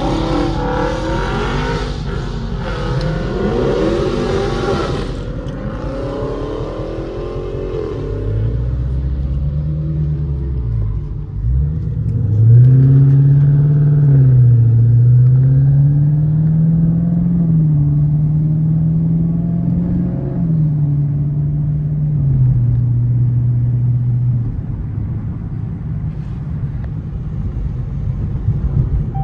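Dodge Scat Pack's 392 HEMI V8 under way, its engine note rising and falling again and again as it accelerates and shifts. The first few seconds hold a denser, noisier stretch of engine sound.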